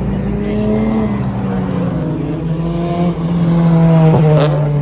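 Loud car engine running close by with a deep steady drone. Its pitch lifts slightly about a second in and again near the end, with a short sharp noise about four seconds in.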